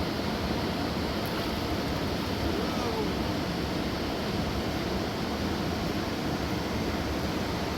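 Fast mountain river rushing over large rocks: a steady, unbroken roar of water.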